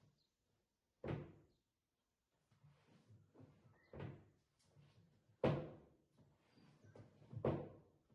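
Wooden drawer pushed into and pulled from its cabinet, knocking shut four times, the third the loudest, with faint sliding scrapes between: the drawer being test-fitted for an even gap.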